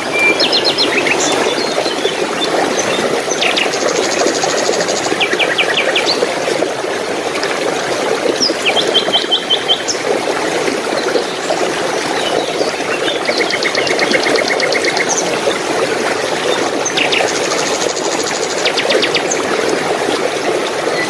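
Steady rushing of running water, with small birds singing over it: short rapid trills of repeated notes and scattered chirps at several points.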